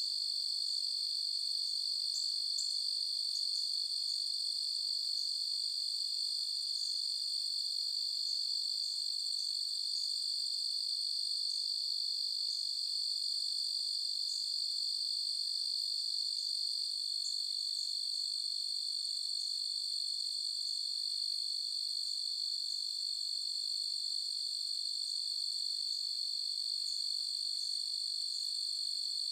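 Crickets trilling in a steady, unbroken high-pitched chorus, with faint short chirps scattered through it.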